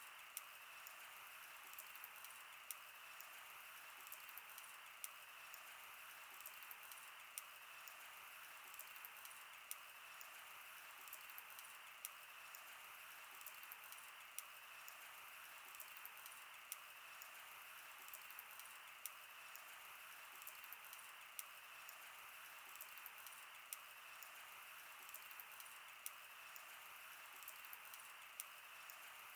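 Wood fire burning, with frequent irregular sharp crackles and pops over a steady soft hiss.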